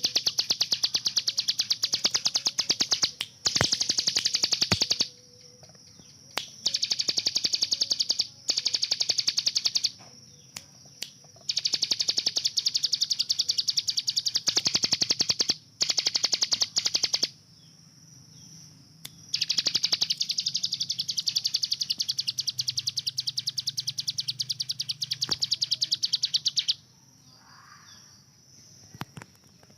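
Ciblek gunung (a prinia) singing its rapid-fire 'tembakan' song: fast trills of sharp, high, evenly repeated notes, many per second, in bouts of a few seconds with short pauses between them, about six bouts in all.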